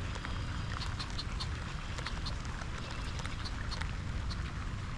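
Steady low rumble of wind on the microphone, with scattered light irregular ticks.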